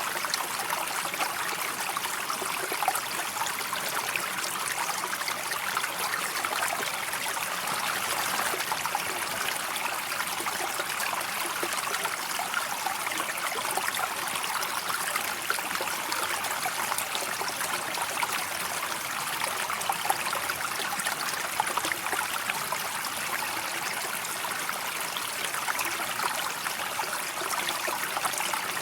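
River water flowing steadily, an even rushing sound with many small splashes and no change in level.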